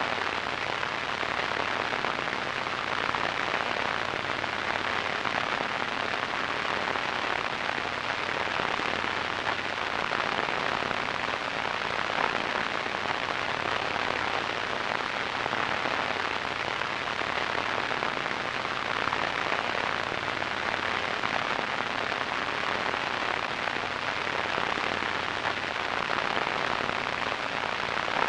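Radio static: a steady hiss of noise, strongest in the upper-middle range and dull above, with no tones or breaks.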